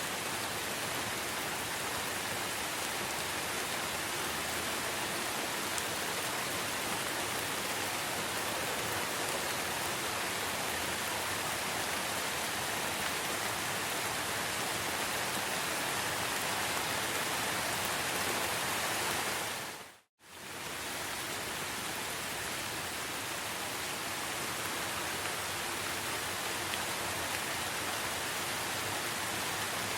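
Steady rain falling, an even hiss. About two-thirds of the way through it fades out to silence for a moment and comes straight back, like a loop join.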